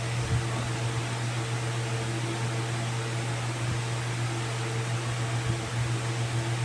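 A steady machine hum with an even hiss and a few faint low knocks.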